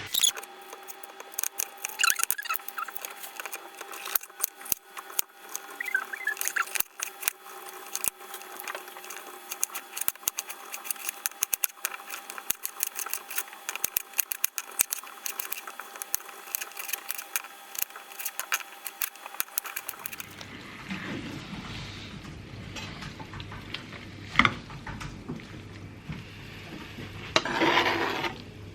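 Kitchen knife chopping peppers on a chopping board: quick, irregular taps of the blade on the board. The sound changes about two-thirds of the way through to softer handling noises.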